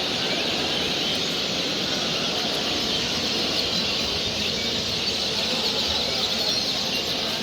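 Many caged show birds chirping and singing at once: a dense, steady, high-pitched twittering chorus.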